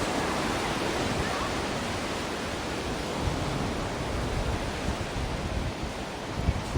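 Ocean surf washing steadily, with low, gusty rumbling rising near the end.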